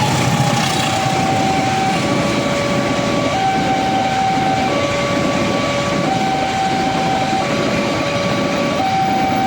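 Railway level-crossing warning alarm sounding a two-tone electronic signal that switches pitch about every second and a half, over a steady rumbling noise typical of a train going through the crossing.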